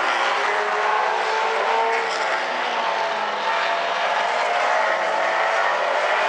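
Field of late model stock car engines running at racing speed around a paved oval, several engine notes overlapping and shifting in pitch as the cars circulate.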